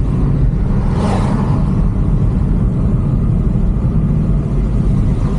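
A car being driven, its engine and tyres making a steady low rumble, with a short rushing hiss about a second in.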